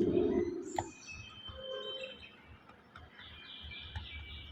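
Faint bird chirps in the background: short high-pitched calls, some near the middle and a run of them in the second half.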